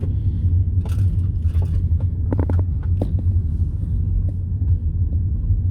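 Steady low rumble of a car driving over a rough, potholed road, heard from inside the cabin, with a few short knocks and rattles in the first three seconds.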